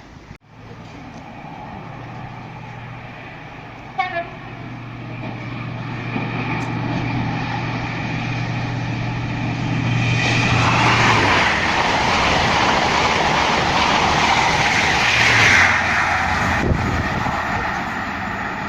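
A main-line train approaching and passing. A steady engine hum grows louder, with a short horn toot about four seconds in, then a loud rush of wheels and air as it goes by, fading near the end.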